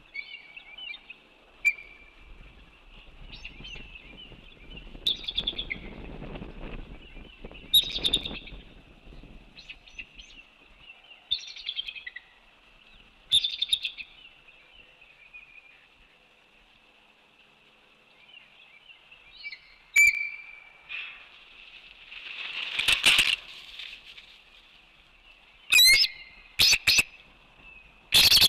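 Birds calling: repeated high, short chirps and chattering calls, with louder bursts of calls in the last few seconds. A low rumble sits under the calls for the first several seconds.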